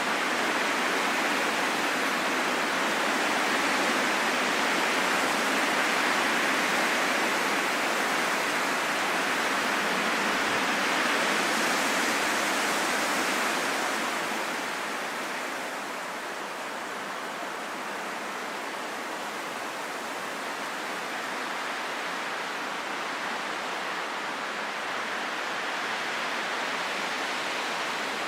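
Wind blowing as a steady rushing hiss, stronger through the first half and easing off about halfway through.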